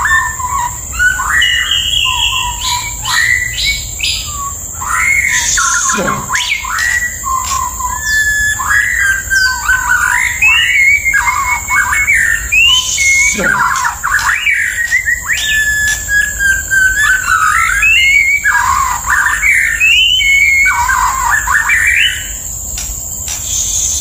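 White-rumped shama singing: a continuous, varied song of rich whistled phrases, broken now and then by a quick steeply falling note.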